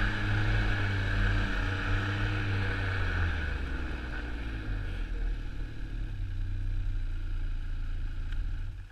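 Snowmobile engine running with a steady whine, easing off over the second half and dropping away sharply near the end.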